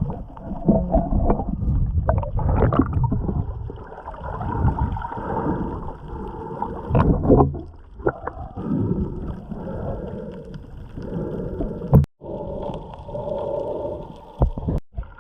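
Water sloshing and gurgling close to the microphone, in uneven surges with sharp splashes, cutting out briefly about twelve seconds in and again near the end.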